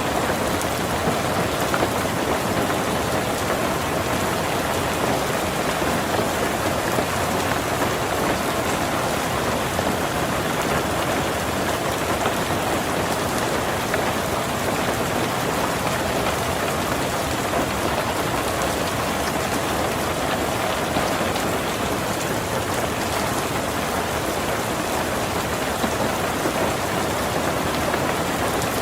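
Heavy rain falling steadily on a tin roof, a dense even patter of drops with no break.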